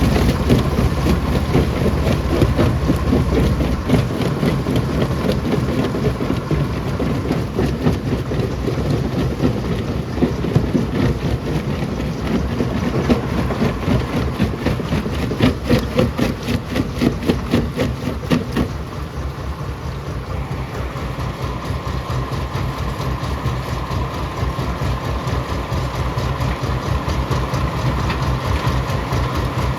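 Rock crusher running with stones rattling and clattering through it, then, about two-thirds of the way in, the rattling gives way to a steadier machine hum.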